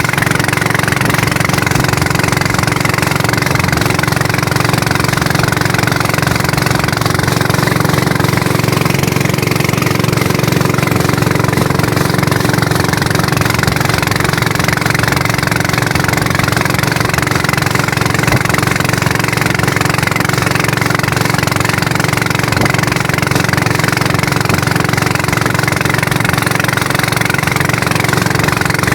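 Small engine running at a steady speed without a break.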